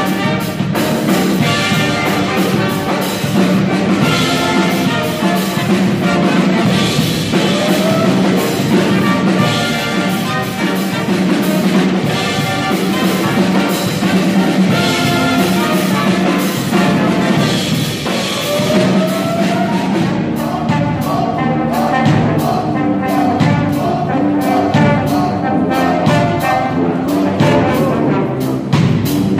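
Brass band playing live: trumpets, trombones and saxophone carry the melody with drums beneath, and a steady drum beat becomes more prominent in the second half.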